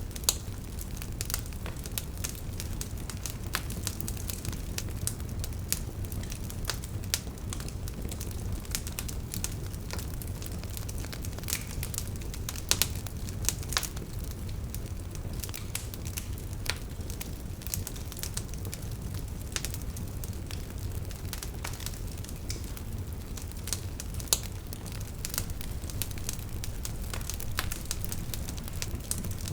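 Wood fire burning with a steady low rumble and irregular crackles, several a second, with an occasional louder pop.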